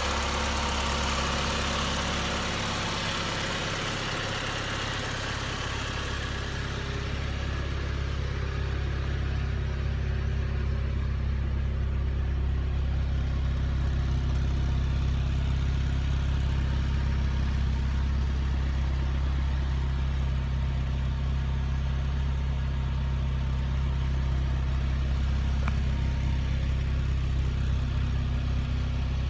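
1990 Mazda Miata's 1.6-litre inline-four idling steadily. A broad hiss over the engine fades away in the first several seconds.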